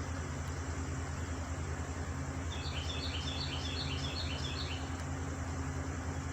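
A bird giving a rapid series of about a dozen short high chirps for a couple of seconds, about two and a half seconds in, over a steady low engine hum.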